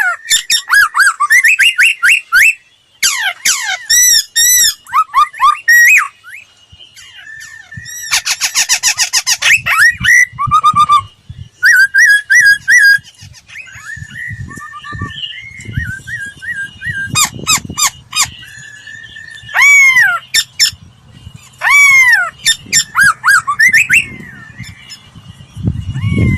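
Laughingthrush singing: loud, varied whistled phrases with rising and falling glides and runs of short repeated notes, in bursts with short pauses between. A fast, dense trill comes about a third of the way in. A low rumble sits underneath in the second half.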